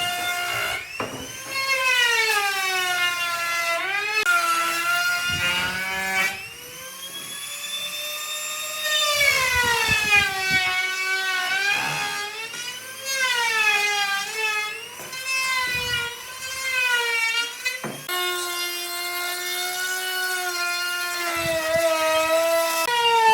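An electric power tool's motor whining at high speed, its pitch sagging each time it bites into the wood and climbing back when eased off, over and over.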